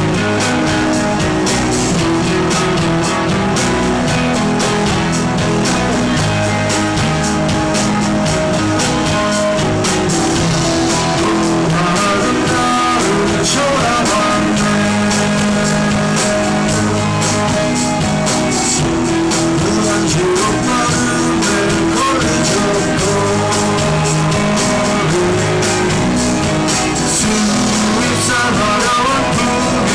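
Live rock band playing a song: electric guitars, bass and drums, loud and steady.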